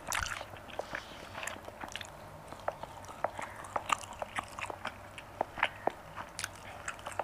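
A person chewing a mouthful of tender marinated goat meat, with irregular mouth clicks and smacks several times a second.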